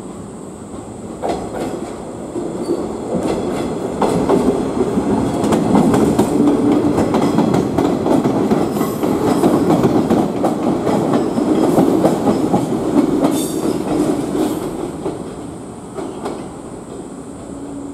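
A yellow JR West 105 series electric train passes close by: wheels rumble and click over rail joints and points, with a brief high wheel squeal. The sound swells about four seconds in, holds, then fades after about fifteen seconds.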